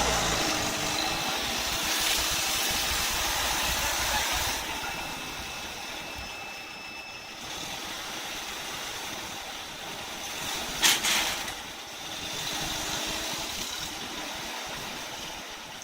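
A car engine running, louder for the first few seconds and then quieter, with a sharp knock about eleven seconds in.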